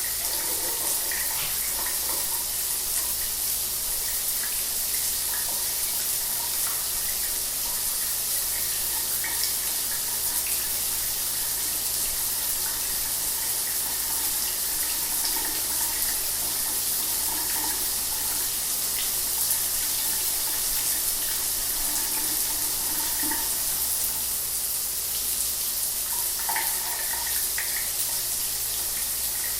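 Shower water running steadily, spray hissing and splattering on a hard surface, with a faint low hum underneath.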